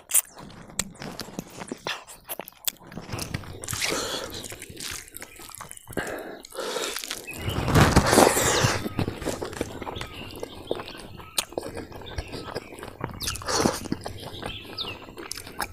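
Close-up eating sounds of a katla fish head with rice eaten by hand: biting, chewing and crunching, with small clicks throughout and a few louder stretches about four, eight and thirteen seconds in.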